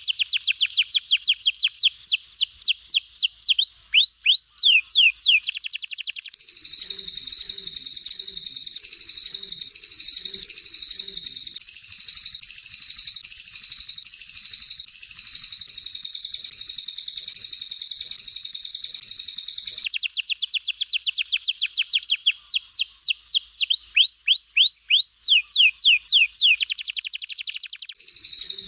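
Recorded songs of a canary and a cililin bird alternating. A fast series of sharply falling whistled notes runs for about six seconds and gives way to a long, very high, dense buzzing trill. The whistled series returns about twenty seconds in, and the buzzing trill comes back near the end.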